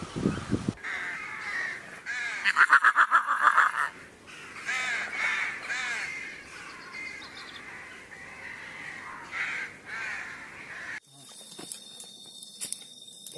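Birds calling: repeated harsh calls, loudest in a fast run of calls about two to four seconds in, giving way near the end to a quieter outdoor background.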